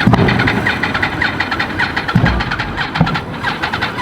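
Yamaha R6 engine being turned over without catching: a fast, even ticking with a couple of dull thumps. It is a failed start, blamed on a lithium battery that is weak in the cold.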